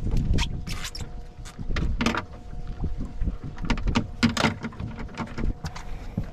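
Irregular knocks and clicks of gear being handled aboard a small boat, over a low rumble and a faint steady hum.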